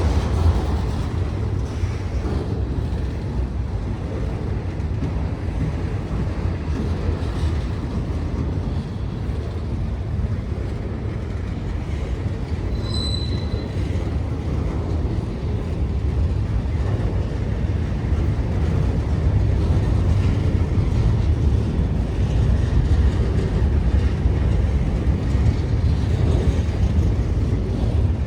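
Freight cars of a mixed manifest train rolling past with a steady rumble of steel wheels on the rails. About 13 seconds in, one wheel gives a brief high squeal.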